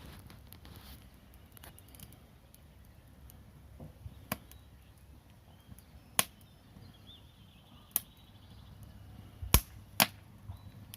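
Wood fire burning under the pot, with a low steady rumble, faint crackling and about five sharp pops spread out, the two loudest close together near the end.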